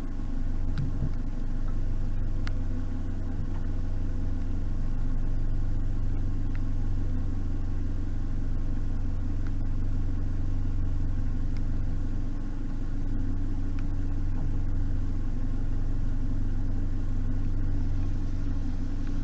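Narrowboat engine running steadily at cruising speed, a constant low drone.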